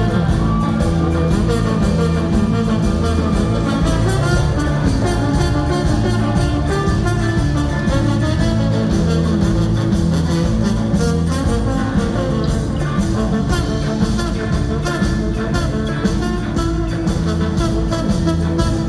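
Live ska-punk band playing, with electric guitar, horns and drums over a steady beat.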